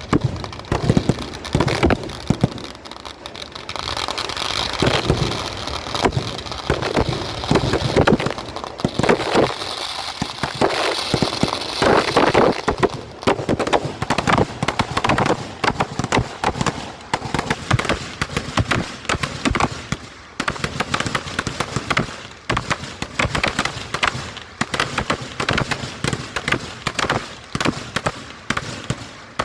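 Fireworks: a long, dense barrage of firecracker bangs and crackles going off in rapid succession, heaviest from about four to twelve seconds in.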